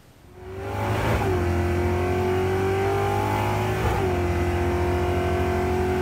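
Car engine accelerating hard through the gears. It fades in over the first second, and the engine note breaks and drops at a gear shift about a second in and again near four seconds in, then pulls on steadily after each shift.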